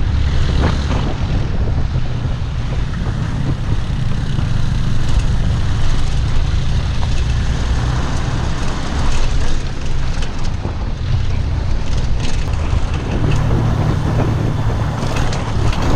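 Motorbike engine running steadily under way, with road and wind noise.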